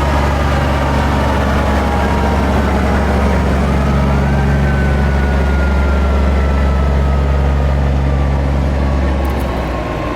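Fire truck's heavy engine rumbling loudly under a siren whose tone slides slowly downward; about four seconds in the siren rises briefly, then winds down again. The engine rumble eases near the end.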